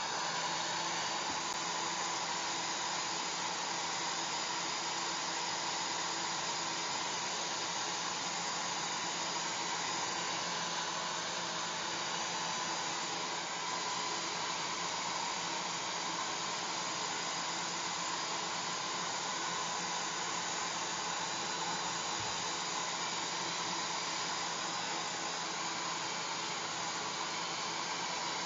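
Hair dryer running steadily: an even rushing of blown air with a faint motor hum underneath, used as white noise.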